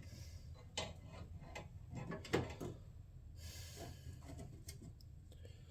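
Faint handling noises: a few light knocks and clicks, and a brief soft rustle, as an aftermarket radiator shroud panel is set in place over the radiator.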